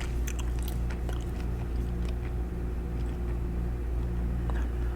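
Chewing gum being smacked and chewed close to the microphone: a string of sharp, wet mouth clicks, thickest in the first second and a half and sparser afterwards, over a steady low hum.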